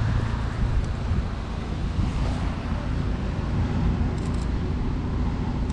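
Wind buffeting the microphone outdoors, a steady uneven low rumble, with three faint quick clicks a little after four seconds in.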